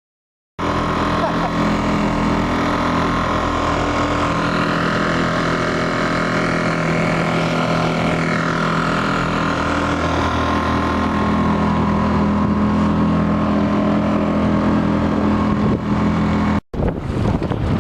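An engine running at a steady speed: a continuous drone with several held low tones. It cuts off abruptly near the end, giving way to wind buffeting the microphone.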